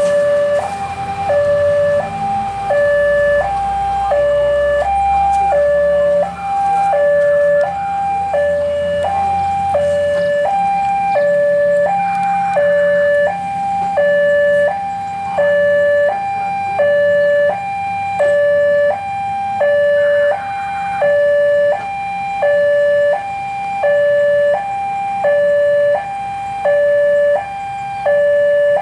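Railway level-crossing warning alarm sounding a steady two-tone signal, alternating high and low about once a second, warning that a train is coming or the crossing is closed. A low rumble underneath fades out about ten seconds in.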